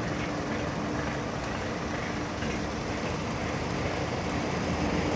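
Heavy diesel construction machinery, an excavator or dump truck engine, running steadily with a low hum, growing slightly louder near the end.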